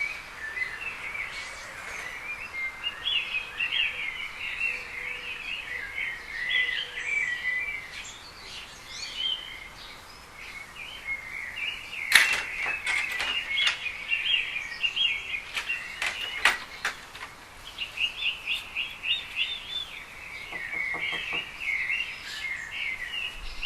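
Small birds chirping and twittering continuously in a busy chorus. A few sharp clicks cut in about halfway through and again a few seconds later.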